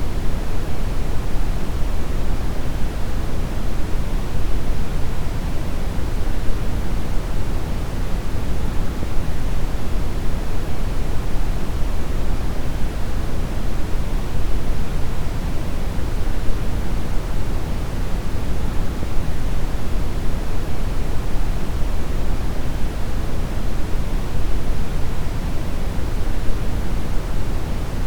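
Brown noise: a steady, deep rushing hiss, strongest in the bass and falling off in the treble, unchanging throughout.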